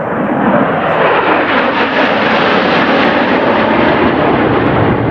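Jet aircraft flying past: a loud rushing roar that swells to its fullest about halfway through and then starts to ease off.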